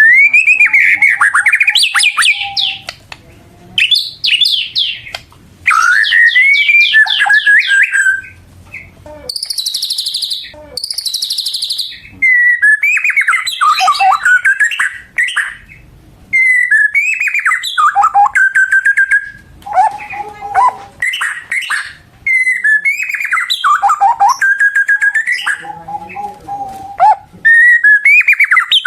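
White-rumped shama (murai batu) singing loudly in repeated phrases of clear whistles, sweeping notes and fast trills, with short pauses between phrases.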